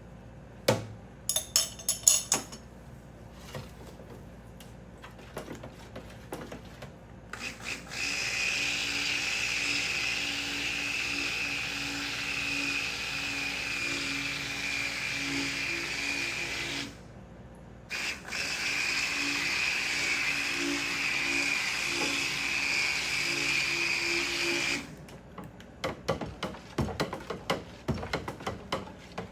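Electric stick blender running in cold-process soap batter in two steady stretches, about ten seconds and then about seven, with a brief stop between. A few glass clinks come before it and light clicks and taps after.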